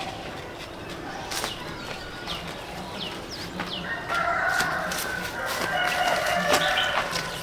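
A rooster crowing: one long call starting about four seconds in, after a few short high chirps.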